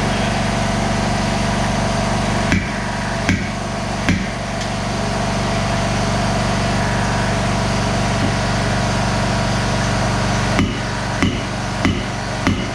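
Hammer blows working a dent out of a truck's sheet-metal body panel, struck slowly: three blows about three-quarters of a second apart, then four more near the end. A steady motor hum runs underneath.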